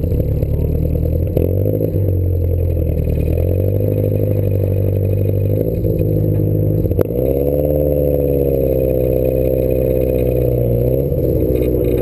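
Small British sports car's engine heard from inside the cabin, running at low to moderate revs as the car moves off and rolls slowly. The pitch steps up and down as the driver works the throttle and gears, with a sharp click about seven seconds in followed by a higher, wavering note.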